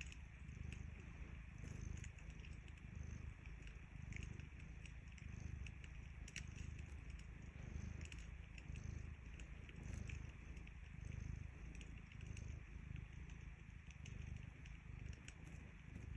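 A sleeping cat purring steadily, a low rumble that swells and eases with each breath, with a wood fire crackling and giving off sharp little pops.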